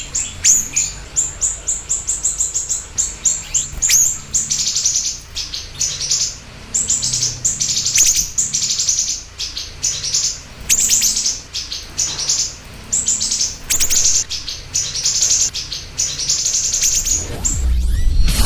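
Siri-siri bird singing: fast runs of high, sharp chip notes repeated in quick bursts. Near the end a rising swish comes in under the song.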